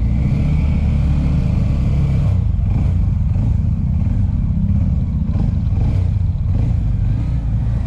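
Motorcycle engine running with a steady low rumble and a little clatter.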